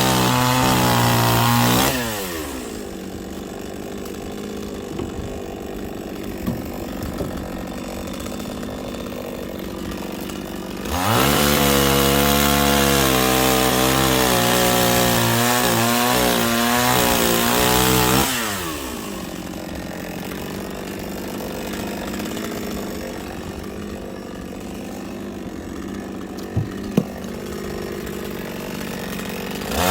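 Chainsaw at full throttle, dropping to a lower idle about two seconds in; it revs up again about eleven seconds in with its pitch dipping and wavering under the load of a cut through firewood, then falls back to idle for the rest.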